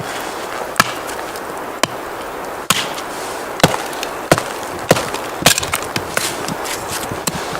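Wood being chopped: a run of sharp cracking knocks, about one a second, over a steady hiss.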